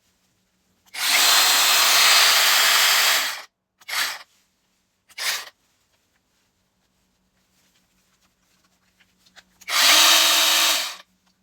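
Brushless motor of a BITOON cordless mini chainsaw running in trigger bursts: one run of about two and a half seconds, two brief blips, then another run of just over a second near the end.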